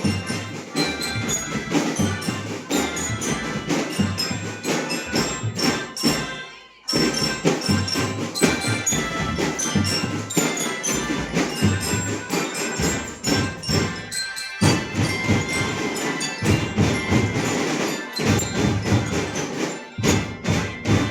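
Drum band playing: bass drums and snares keeping a march beat under a bright, bell-like melody. The playing breaks off for a moment about six and a half seconds in, then starts again.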